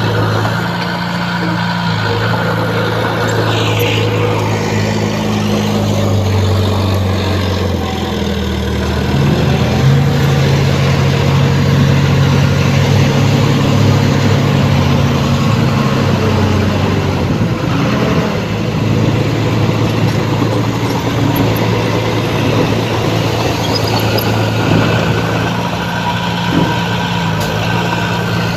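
Heavy diesel engine of a bulldozer working under load. Its note steps up about nine seconds in, holds steady, and eases back down after about seventeen seconds.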